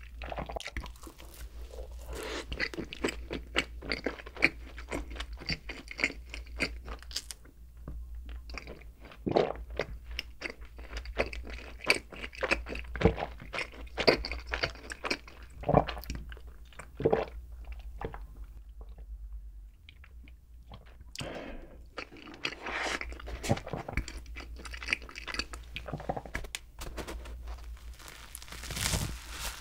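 Close-miked chewing of soft cream-filled bread, with wet, sticky mouth clicks and smacks. Partway through there is a drink of milk. Near the end there is a short burst of noise as a round bread is torn open.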